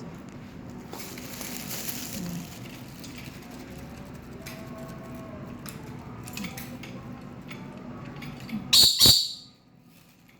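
Pet lory screeching twice in quick succession near the end, two short, loud, shrill calls, after a brief rustle about a second in and a few light clicks.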